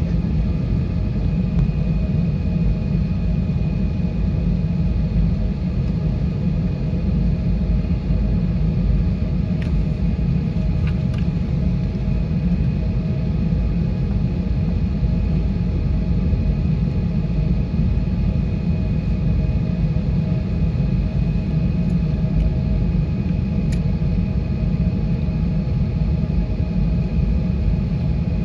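Steady low rumble of engine and airflow noise inside the cabin of an Airbus A320-232, with faint steady whine tones from its IAE V2500 engines. A few faint clicks sound about ten, eleven and twenty-four seconds in.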